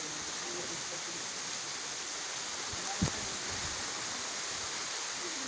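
Heavy rain falling steadily, a constant even hiss, with one sharp tap about halfway through.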